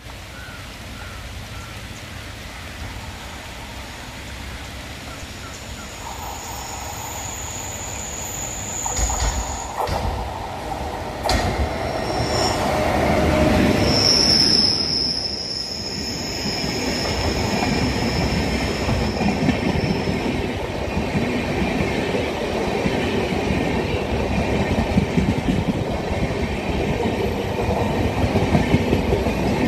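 Indian Railways locomotive-hauled passenger train approaching and passing on a curved track: the rumble builds, the locomotive goes by in the middle, and the wheels squeal in high, thin steady tones on the curve. The coaches then roll past with a steady rhythmic clickety-clack.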